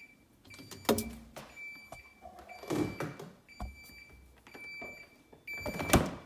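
Samsung refrigerator beeping: short electronic beeps at one high pitch, repeating irregularly, with a few sharp knocks and clunks in between, the loudest about six seconds in.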